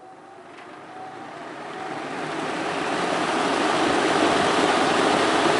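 Freshly cleaned vintage box fan switched on and spinning up: a rush of moving air that grows louder over the first three seconds, then runs steadily.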